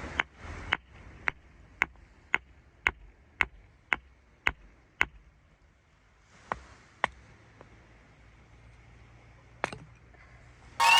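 Splitting firewood with a hatchet: about ten sharp wooden knocks, roughly two a second, then three more, further apart. A loud sound with shifting tones cuts in right at the end.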